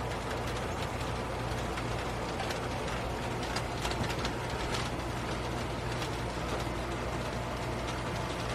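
Steady light rain falling, with scattered faint drip ticks over a constant low hum.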